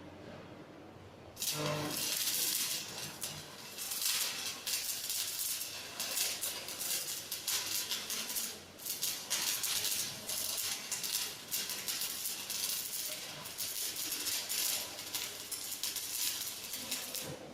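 Electric arc welding: an arc struck about a second and a half in, then a steady crackling sizzle with brief dips, ending just before the end.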